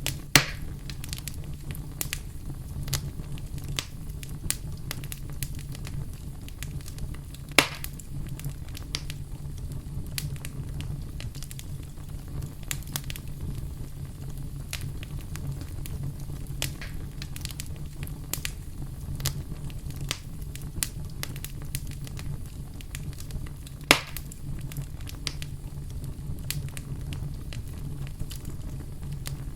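Campfire burning and crackling, with steady small snaps and three loud pops from the burning wood, one just after the start, one about a third of the way in and one near the end, over the low steady rush of the flames.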